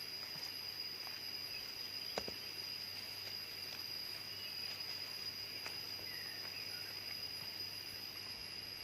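Steady, high-pitched drone of insects, such as crickets or cicadas, with one sharp click about two seconds in and a few faint short chirps partway through.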